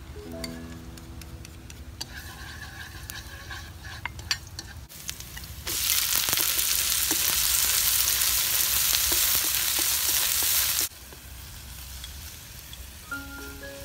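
Snails tipped from a plate into hot oil and garlic in a wok, setting off loud sizzling that lasts about five seconds and then cuts off suddenly. Before it come a few light clicks, and short musical notes sound at the start and again near the end.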